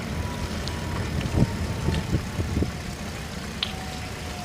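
Steady low rumble of wind and road noise from a moving electric recumbent trike, with a faint thin motor whine that slowly drops in pitch and a few light clicks.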